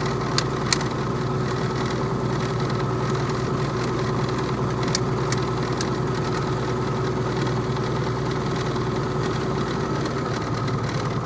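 Piper Comanche's single piston engine running steadily at low taxi power after landing. A few short sharp clicks come about half a second in and again around five seconds in.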